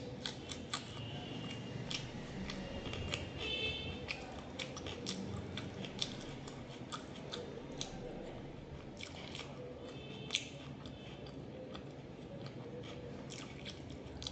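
A person chewing steamed momos, with many small wet clicks of the mouth and bites throughout.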